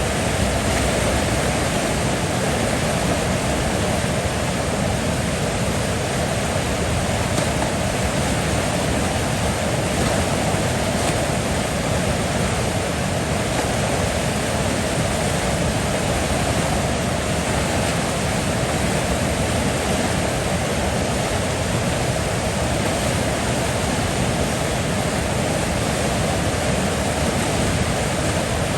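A river flowing, a steady, even rush of water with no change in level or character.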